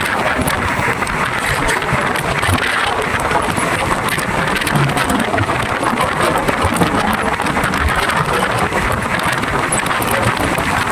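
Passenger train running along the track: a steady, loud rumble and rattle, with many small clicks throughout.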